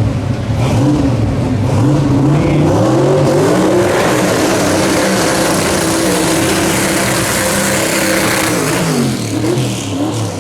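Twin-turbo V8 dragster engine under hard throttle. Its pitch climbs over the first few seconds, holds high and loud, then drops away about nine seconds in.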